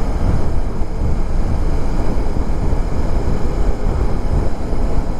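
Motorcycle riding at speed: steady wind buffeting on the microphone over the bike's engine and road noise.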